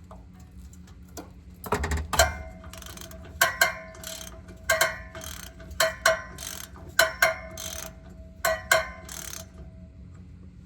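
Hand ratchet wrench clicking in short strokes, mostly in pairs about once a second, on the exhaust bolts holding up the catalytic converter. A heavier metal knock comes about two seconds in.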